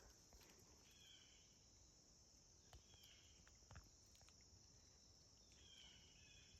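Near silence with a faint steady insect chorus, a faint chirping call repeating about every two seconds, and a few soft clicks.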